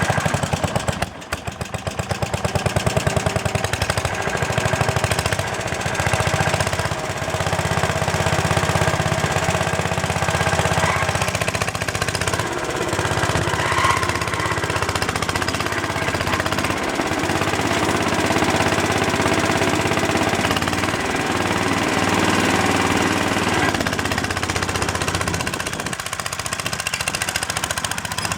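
Mayrath mini tractor's 8-horsepower Briggs & Stratton single-cylinder engine running steadily, with a short dip in level about a second in before it picks back up.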